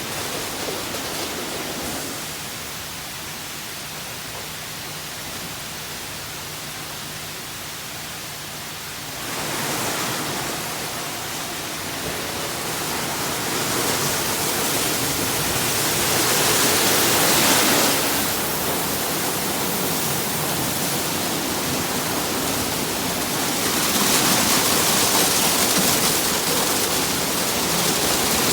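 Ryko SoftGloss Maxx 5 automatic car wash spraying water over a car: a steady hiss of spray that grows louder about nine seconds in and swells twice more.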